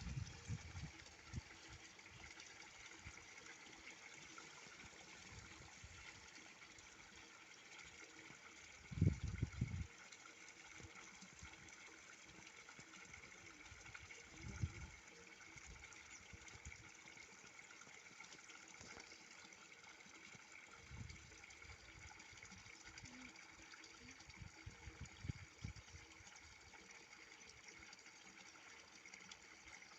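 Water running steadily at a spring, with a few low bumps, the loudest about nine seconds in.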